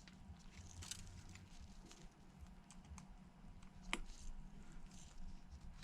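Faint light clicks and taps of small repair tools and flex-cable connectors being pressed onto an iPhone 11's logic board, with one sharper click about four seconds in.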